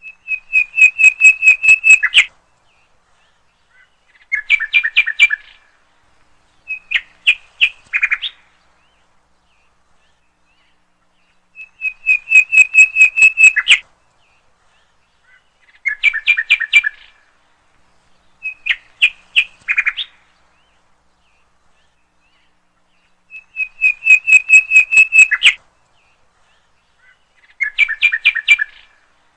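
Bird chirping repeated as a loop: a cycle of three rapid chirping trills, first a steady two-second trill, then two shorter ones, repeats identically about every twelve seconds, with dead silence between the trills.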